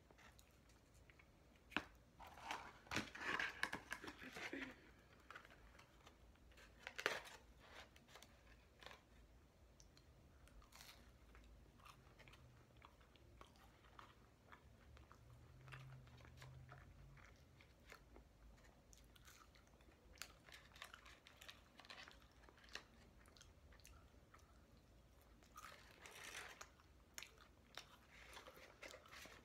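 Faint close-up chewing and crunching of McDonald's chicken McNuggets, with scattered small clicks. There is a denser patch of sound about three seconds in and another near the end.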